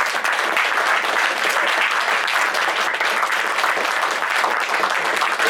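Audience applauding steadily at the end of a live performance, a dense wash of clapping.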